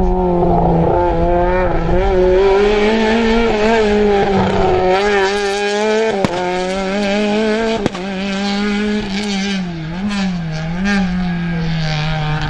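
Rally car engine held at high revs through a stage, its pitch wavering up and down as the driver works the throttle and gears. Two sharp cracks come about six and eight seconds in.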